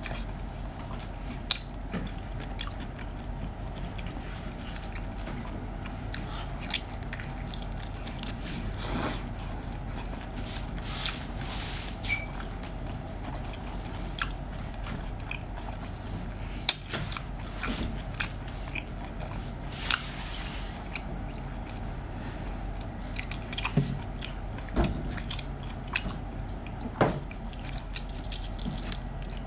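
A person biting and chewing food close to the microphone, with irregular sharp bites standing out over a steady low hum.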